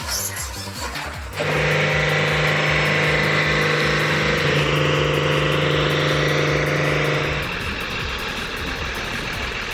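A machine's engine running steadily with a held whine. It gets louder about a second and a half in and drops back about seven and a half seconds in.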